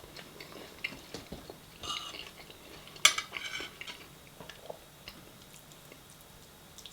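Cutlery clinking and scraping against dishes during a meal: a few light clicks, a scrape about two seconds in, and a sharp clink about three seconds in.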